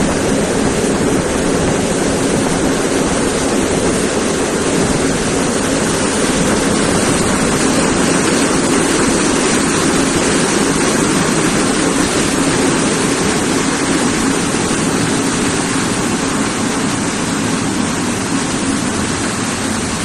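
Passenger train running slowly alongside the platform as it pulls into the station: a steady rumble and rush of wheels and air, heard from the carriage window, easing slightly near the end.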